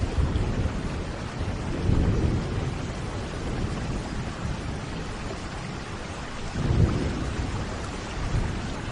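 Thunderstorm: steady rain with low rolling rumbles of thunder, swelling about two seconds in and again, louder, near seven seconds.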